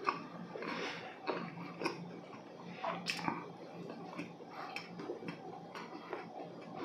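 Close-miked chewing of dense, dry hodu gwaja (Korean walnut cakes) with the mouth closed, with irregular soft clicks and smacks.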